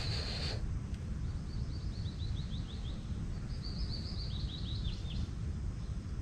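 A bird singing two quick runs of short, falling, high notes, about a second apart, over a steady low rumble.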